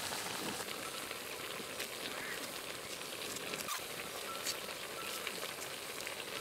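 Pork pieces and tomatoes sizzling in a large cooking pot: a steady frying hiss with scattered small pops and crackles.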